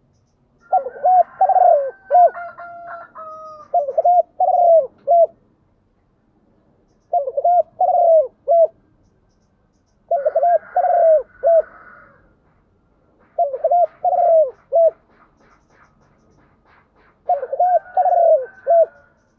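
Spotted dove cooing: five phrases of its repeated, arched 'cu-gáy' coo notes, spaced a few seconds apart.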